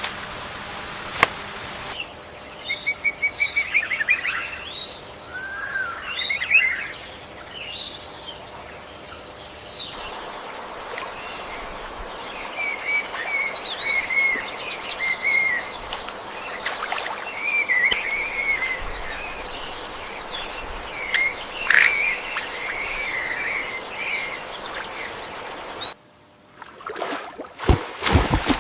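Several birds chirping and warbling in quick, varied phrases, over a steady high insect-like whine during the first third. It opens with a brief hiss of noise and ends with a short gap and a few sharp knocks.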